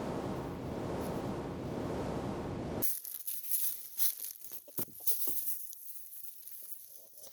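A steady low rumbling noise that cuts off suddenly about three seconds in, followed by soft rustling and crinkling with a few light taps and clicks.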